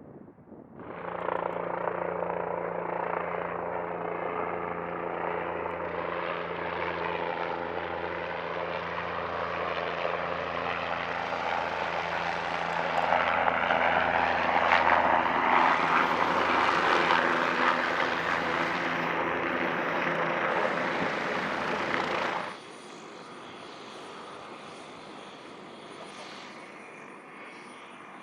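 Bell 407 helicopter's single turboshaft engine and four-blade rotor running close by with a steady rotor drone. It grows louder toward the middle, then drops abruptly about 22 seconds in to a quieter steady running with a thin high whine.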